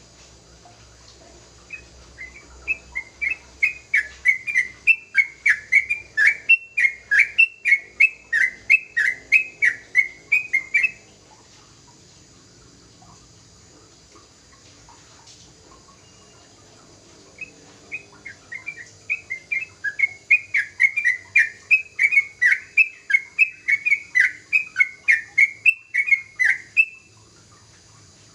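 Young yellow-vented bulbul (trucukan) singing in two long bouts of quick, repeated downward-sweeping notes, about three a second, each bout running about nine seconds.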